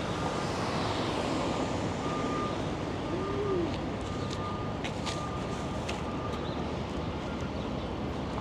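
City street traffic noise with a vehicle's reversing beeper sounding over it in short, evenly spaced beeps. A few sharp clicks come a little past the middle.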